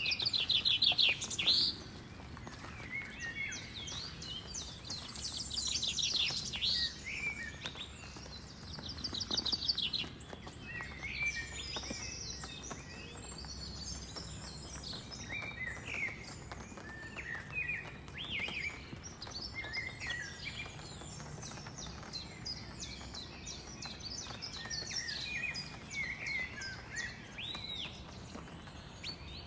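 Wild birds singing and calling, several overlapping: a loud fast trill right at the start, more trills about five and nine seconds in, and scattered short chirps and whistles throughout.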